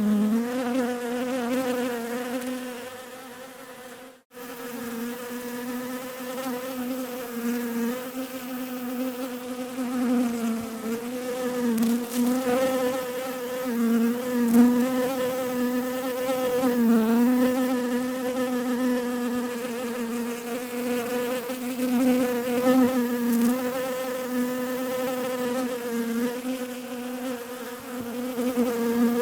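Bees buzzing: a steady, wavering hum that fades about three seconds in and drops out for an instant just after four seconds, then comes back and carries on.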